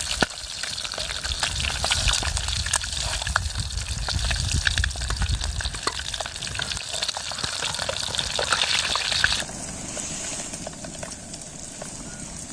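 Marinated boiled eggs frying in hot oil in a pan: a steady sizzle with dense crackling and spitting. The sizzle drops off sharply about three-quarters of the way through, leaving a quieter hiss.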